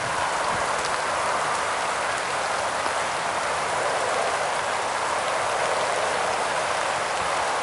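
Pouring rain falling steadily, a dense even hiss of drops with a few faint ticks among them.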